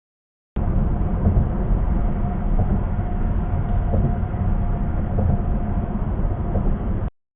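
Steady low rumble of road and tyre noise inside a car cabin at highway speed. The audio is completely silent for about the first half second and cuts out abruptly about a second before the end, as in a recording dropout.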